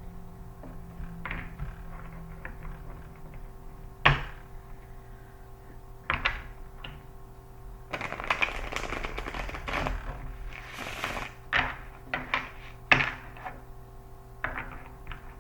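Tarot cards being handled: sharp taps as cards are set down, with a stretch of rapid card shuffling in the middle, over a steady hum.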